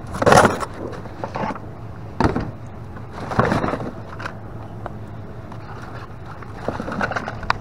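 Items being rummaged and handled in a dumpster: a scattered series of short scrapes, rustles and knocks over a steady low hum.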